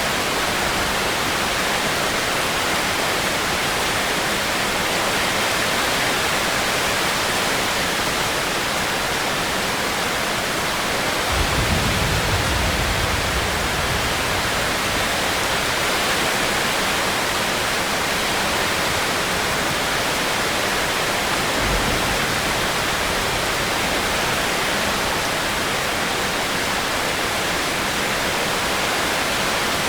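Steady rainfall, an even hiss, with a short low rumble about eleven seconds in.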